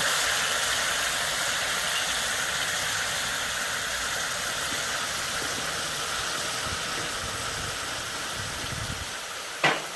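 Annatto (ruku) frying in oil in a pot, a steady sizzle that slowly grows quieter as the liquid cooks off. A single short clink near the end.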